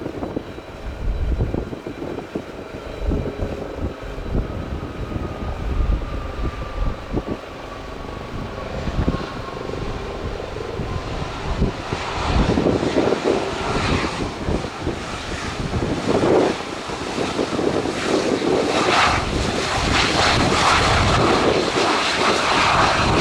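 Jet airliner landing: a whine falling slowly in pitch, then engine noise swelling from about halfway and staying loud to the end.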